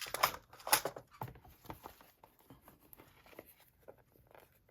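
Hands handling small craft supplies: a few quick rustles and clicks in the first second or so, then only faint light ticks.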